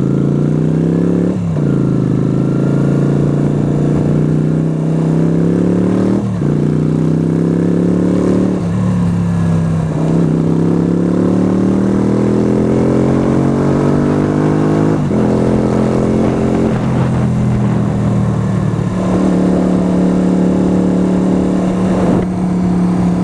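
Yamaha YBR125 single-cylinder four-stroke engine accelerating through the gears: its pitch climbs in each gear and drops sharply at each of several upshifts, then holds steady at cruising speed near the end.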